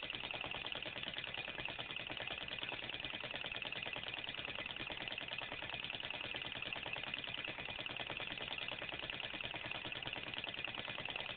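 Small glass demonstration-model Stirling engine running steadily on a low alcohol flame, a fast, even ticking purr from its moving parts.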